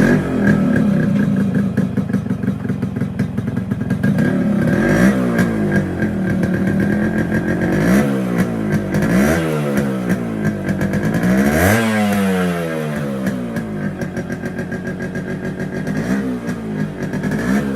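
Yamaha RX100's single-cylinder two-stroke engine idling through its original stock silencer and muffler. It is revved up and let back down several times in the middle, then settles back to a steady idle.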